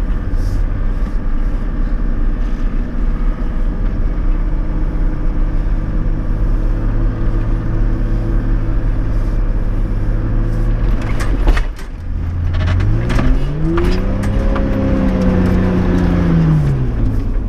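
Toyota LandCruiser 105 Series engine running steadily off-road, then about twelve seconds in its revs climb and fall away again over a few seconds, with a cluster of sharp knocks and clunks from the vehicle as the revs come up.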